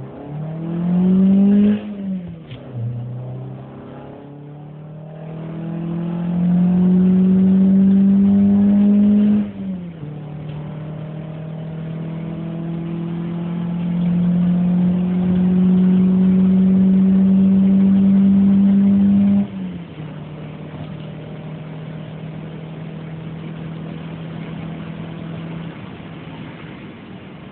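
Peugeot 206 RC's 2.0-litre four-cylinder engine under hard acceleration, revving up and dropping in pitch at upshifts about 2 and 10 seconds in. It pulls loudly in the next gear, then eases off about two-thirds of the way through to a quieter, steady cruise.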